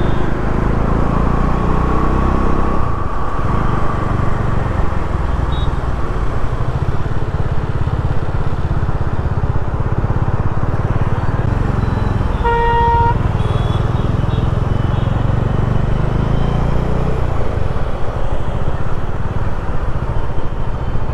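Motorcycle engine running in city traffic, with a vehicle horn honking once, briefly, about twelve seconds in.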